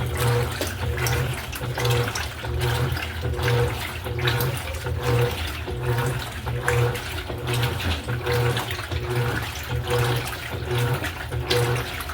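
Electrolux LED14 top-load washing machine agitating a load in water: the motor hum pulses about one and a half times a second as the agitator swings back and forth, with water sloshing in the tub throughout.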